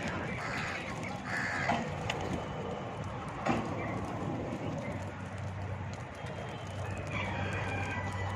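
Parrots calling over a steady noisy background, with a few calls in the first two seconds and a longer call near the end, and a sharp click in the middle.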